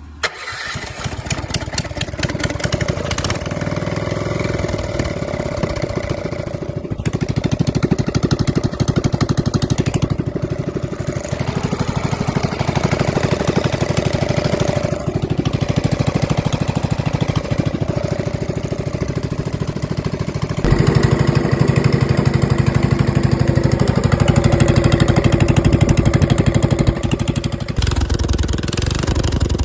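Honda GX270 single-cylinder four-stroke engine running after its rebuild. It settles into a steady run, then runs louder and harder for several seconds near the end before easing back.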